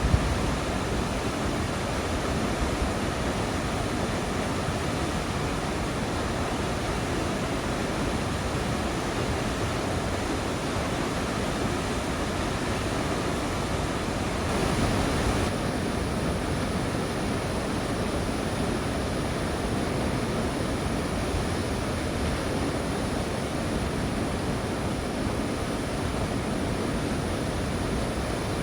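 Steady rushing outdoor noise with no distinct events, swelling slightly for about a second halfway through.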